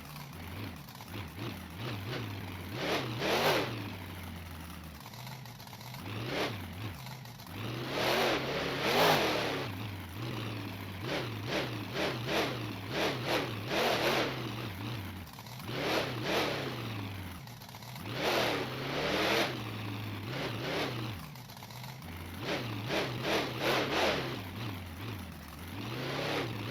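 Monster truck engine idling with repeated short, hard revs every couple of seconds.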